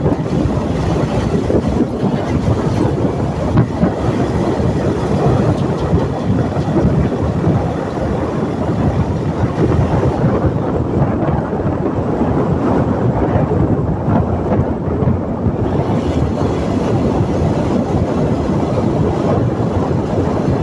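Steady road and engine noise of a vehicle on the move through city streets, an even low rumble with no distinct events.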